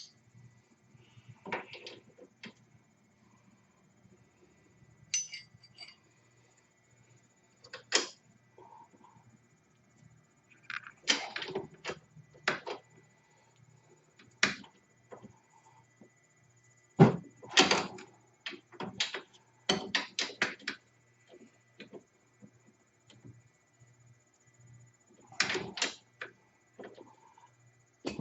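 Hand tools and sockets clinking and knocking against metal at irregular intervals, with a few quick runs of clicks. A faint steady hum lies underneath.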